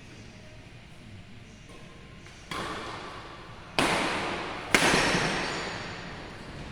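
Badminton rackets striking a shuttlecock in a rally, three sharp hits about a second apart, each echoing in a large hall. The third hit is the loudest.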